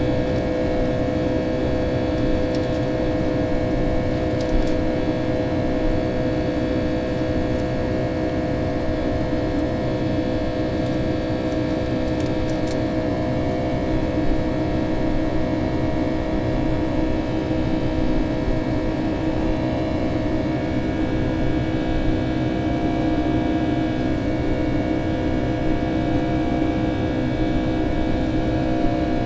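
Boeing 757-200's engines heard from inside the cabin: a steady drone with several held tones over a low rumble.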